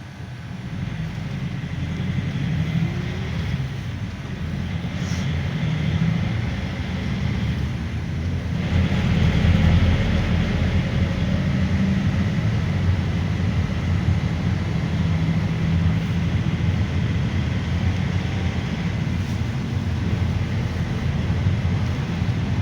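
Inside the cabin of a moving GAZelle Next minibus: steady low engine rumble with road and tyre noise. It grows louder over the first couple of seconds, and the road noise rises again about eight seconds in.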